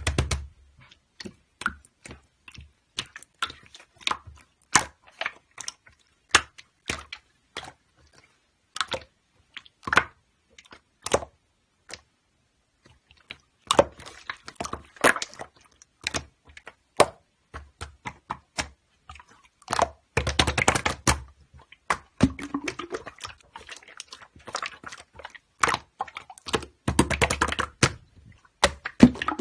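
Slime being squeezed and poked by hand, making irregular sharp clicks and pops with short quiet gaps between them. The clicking gets denser and crackly about twenty seconds in and again near the end.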